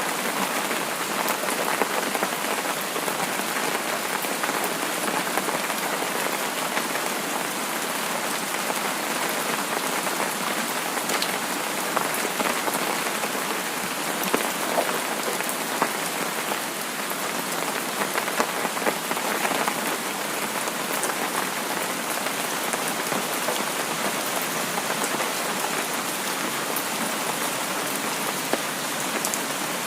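Steady rain falling on a surface: an even hiss dotted with many small scattered drop ticks.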